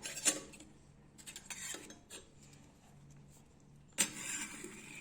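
Small metal tools being handled and set down on a workbench: a few sharp clinks and a short clatter, then a louder metallic knock near the end.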